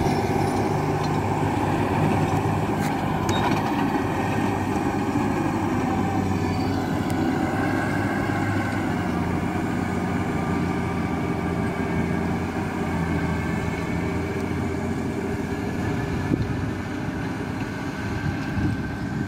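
A motor vehicle engine running steadily, its pitch shifting a little now and then.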